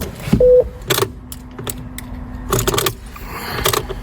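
Ignition key and keyring jangling as the key is worked in an Opel Zafira B, with several sharp clicks, a short electronic beep about half a second in, and a low steady hum from about one to three seconds in. The engine does not crank: the immobiliser is blocking the start.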